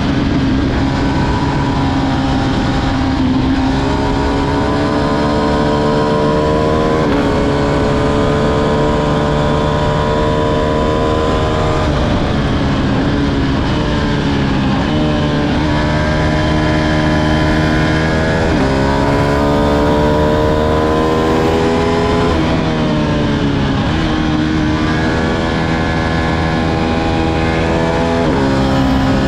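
Ducati Streetfighter V2's 955 cc Superquadro V-twin accelerating hard under load, its pitch climbing steadily and then dropping sharply at each upshift, about six times, with a couple of stretches where the revs sink more slowly as the throttle eases.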